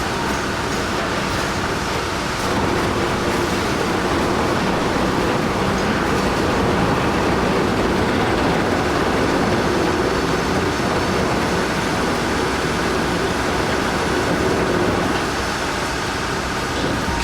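Heavy vehicle engines and road noise running steadily, with no sudden events, a little louder in the middle.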